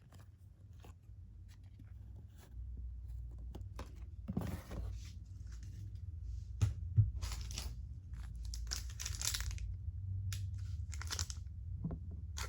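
Trading-card pack wrapper being torn open and crinkled, with the cards rustling and clicking as they are handled, in scattered short bursts, the densest a few seconds in and again past the middle.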